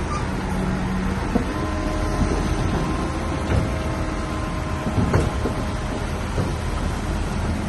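Bulldozer's diesel engine running steadily under work, with a few sharp metallic clanks.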